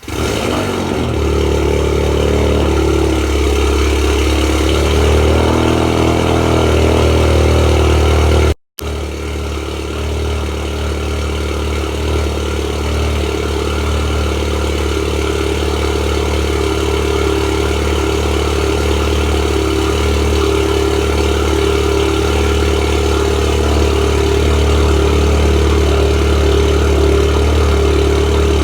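2018 Volkswagen Golf R's turbocharged 2.0-litre four-cylinder, breathing through an Xman aftermarket exhaust, starting from cold and settling into a steady fast cold idle. The sound drops out for a moment about eight and a half seconds in.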